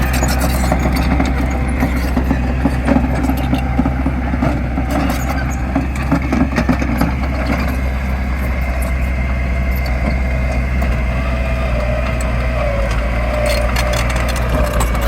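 Heavy construction machine's diesel engine running steadily with a deep drone and a whine that wavers, with a few sharp clanks near the end.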